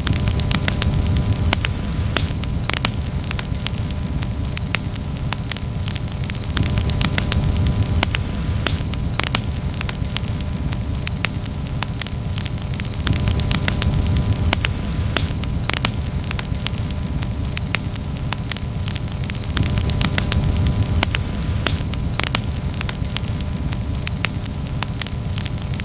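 Campfire crackling: irregular sharp pops and snaps, several a second, over a steady low rumble of burning wood.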